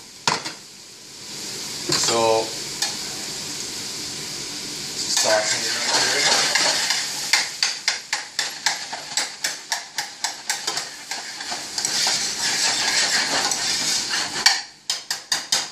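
Vegetables and chopped sausage and ham sizzling as they sauté in a steel pot, with a spoon stirring and knocking against the pot in quick strokes, about three to four a second, from about seven seconds in until near the end.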